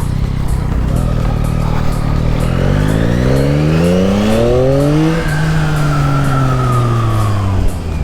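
2021 Yamaha MT-09's 890 cc inline-three engine under way: its note rises steadily for about three seconds as the bike accelerates, then falls gradually over the next few seconds.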